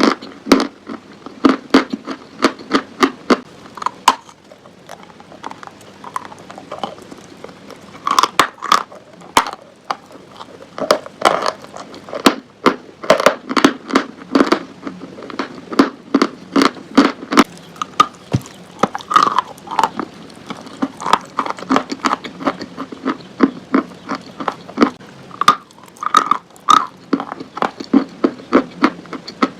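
Chalk crunching close to the microphone in quick runs of sharp, crackly crunches, with short pauses between runs.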